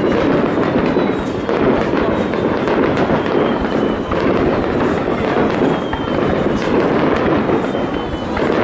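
Aerial fireworks display at full intensity: a dense, unbroken barrage of bangs and crackling, with faint thin whistling tones that slide slowly downward now and then.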